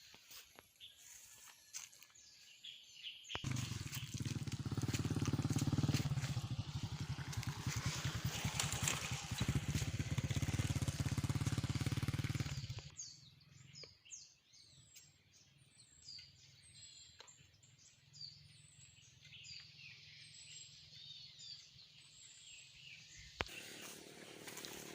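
A loud, steady low rumble with hiss runs for about ten seconds, then cuts off to many small birds chirping: short, quick, high notes over a quiet background.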